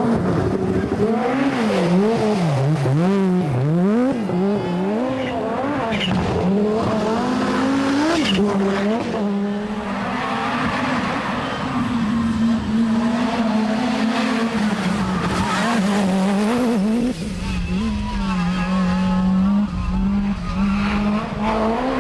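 Group B rally car engine at high revs. In the first few seconds the pitch swings quickly up and down through throttle lifts and gear changes, then it holds fairly steady at full throttle with small dips.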